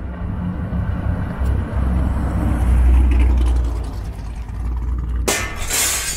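Corvette V8 running on the road, a low exhaust rumble that swells about two to three seconds in and then eases off. Near the end it switches abruptly to a bright rushing hiss.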